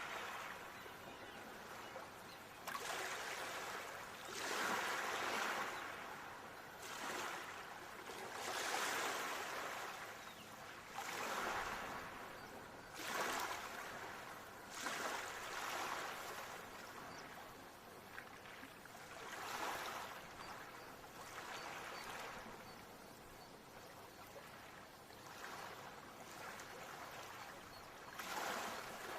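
Ocean waves washing onto a shore, surging up and falling back every couple of seconds.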